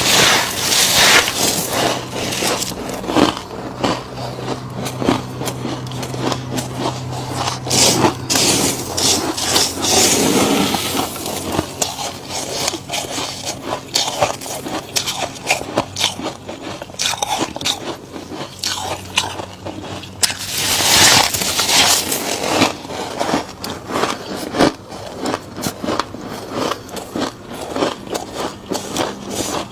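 Freezer frost being scraped off by hand and crunched between the teeth, close to the microphone. Dense crackling crunches run throughout, with louder scraping swishes about a second in, near the middle and again about two-thirds through.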